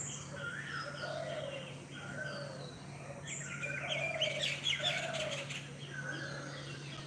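Birds calling in the trees: a short curved call repeated about once a second, and a flurry of quick high chirps from about three to five and a half seconds in. A steady low hum runs underneath.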